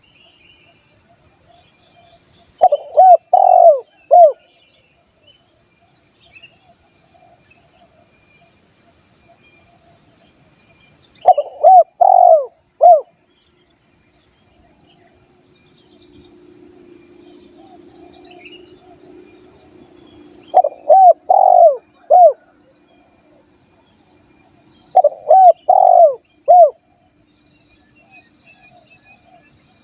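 Spotted dove (tekukur) cooing: four phrases of three or four arched coos, spaced several seconds apart, used as a lure call to draw wild spotted doves. Steady high insect trilling and faint chirps of other birds lie beneath.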